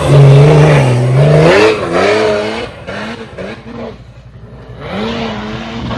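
Off-road vehicle engine revving hard under load, its pitch wavering up and down with the throttle. It eases off a few seconds in, then picks up again and holds a steady pitch near the end.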